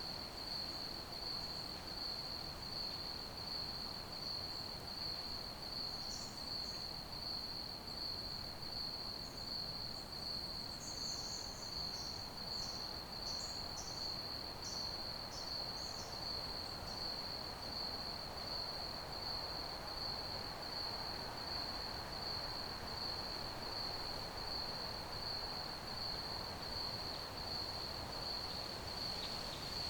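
Crickets chirping in a continuous, fast-pulsing high trill that never lets up. A few brief, higher chirps come in between about 6 and 16 seconds in, over a faint background hiss.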